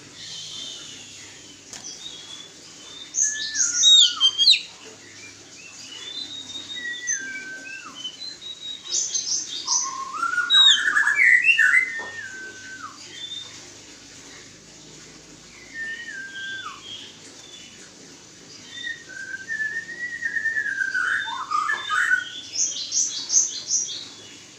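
Oriental magpie-robin (kacer) whistling. A short falling two-step whistle repeats every few seconds, broken by louder bursts of quick, varied song several times.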